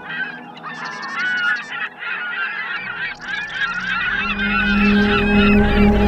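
A flock of birds calling, many short overlapping calls at once. A low steady drone comes in about halfway through and grows louder.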